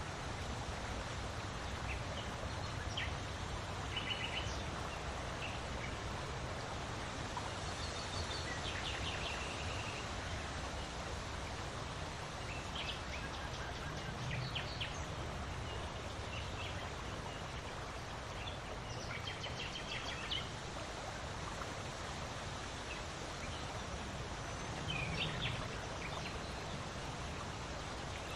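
Steady wind noise with a low rumble, and small birds giving short, scattered chirps throughout.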